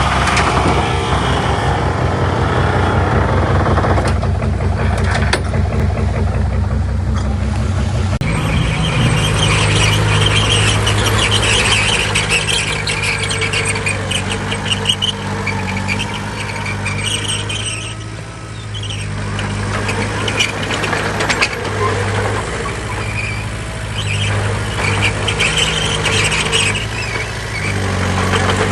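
Heavy diesel engine of a bulldozer working under load, with high metallic squealing and clanking from its steel tracks. The engine note changes and rises about eight seconds in.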